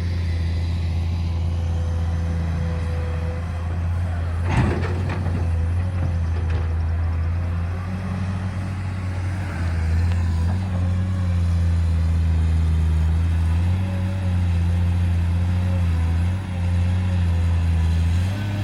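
Heavy diesel engine of earthmoving machinery running steadily at a low, even pitch, with one sharp knock about four and a half seconds in.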